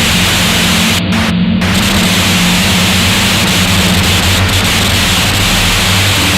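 Harsh noise music: a loud, dense wall of hiss and static with a steady low droning hum beneath it. Twice, about a second in, the top of the hiss cuts out for a moment.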